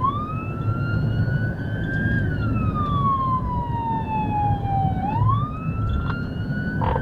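Police car siren in a slow wail, each cycle rising for about two seconds and falling for about three, over a steady low rumble.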